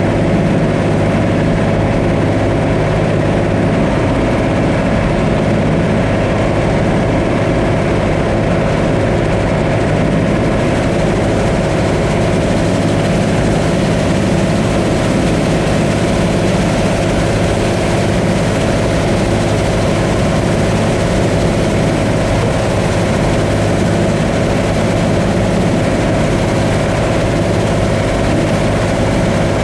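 Combine harvester running steadily while harvesting corn: a constant engine drone with a steady tone over it that does not change.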